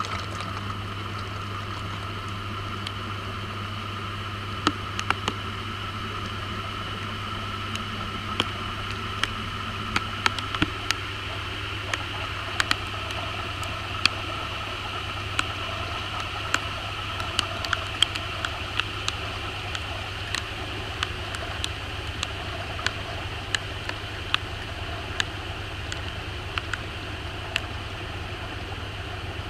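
Maytag washing machine running, heard from inside its tub: a steady low motor hum with scattered sharp ticks, one or two a second.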